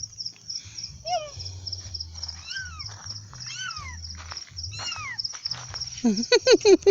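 Crickets chirring steadily in a rapid pulsing rhythm, with several short arching calls over them. Near the end comes a loud series of short pitched sounds.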